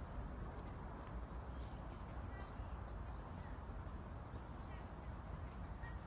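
A few short bird chirps over a steady low rumble of outdoor background noise.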